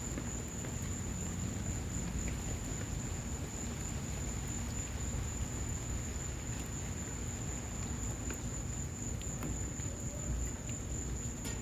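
Wood fire burning in an outdoor patio fireplace in the rain: a steady low rush with scattered faint crackles and pops, over a constant high-pitched whine.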